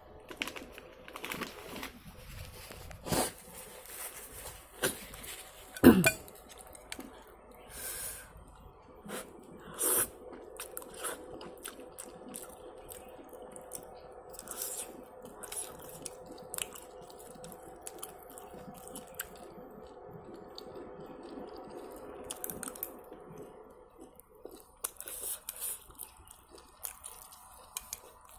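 Close-up mukbang eating sounds: a person chewing a mouthful of spicy instant noodles with shrimp and squid, with scattered short clicks and knocks of chopsticks against a ceramic bowl, the loudest about six seconds in. A faint steady hum runs underneath.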